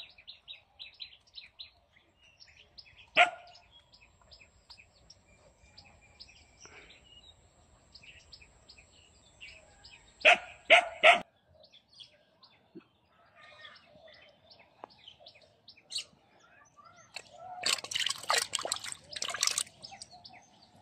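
Small birds chirping repeatedly in short high notes, with a few louder sharp sounds cutting through: one about three seconds in, three quick ones around ten seconds, and a longer clattering burst near the end.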